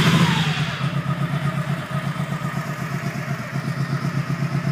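Honda Shadow 1100 Saber's carbureted V-twin idling with a steady, even pulsing beat just after starting, its revs settling down during the first second.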